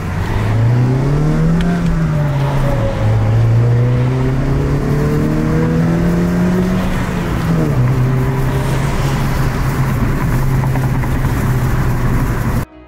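Honda Fit's 1.5-litre four-cylinder engine, fitted with an HPS short ram air intake, pulling under acceleration. Its pitch climbs, drops sharply about three seconds in, climbs again, then falls at about eight seconds and holds steady.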